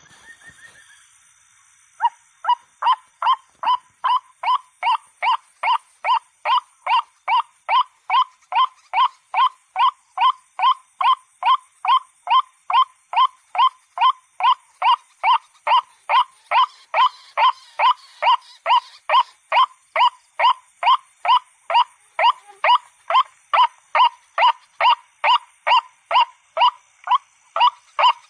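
White-breasted waterhen (ruak-ruak) calling its repeated 'ruak' note, about two calls a second, in a steady unbroken series that begins about two seconds in.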